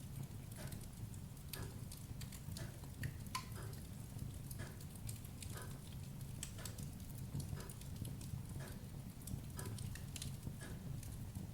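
Wood fire burning in a fireplace: a steady low rumble of flames with scattered sharp crackles and pops, and soft knocks recurring about once a second.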